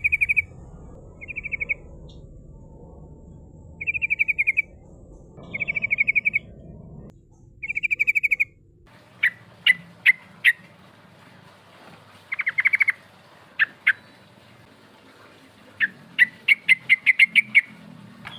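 Yellow-vented bulbul (trucukan) calling: short, rapid rattling trills repeated every second or two. About halfway through, the background changes and the bird gives sharp single notes, one more trill, and a quick run of chirps near the end. It is a recording used as a lure to draw rival birds.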